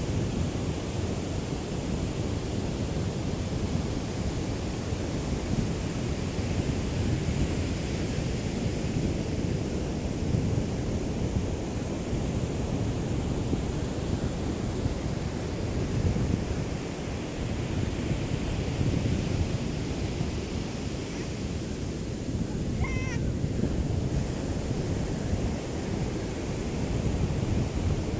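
Small waves lapping steadily on the shore of a calm sea, a continuous wash with a light breeze rumbling on the microphone.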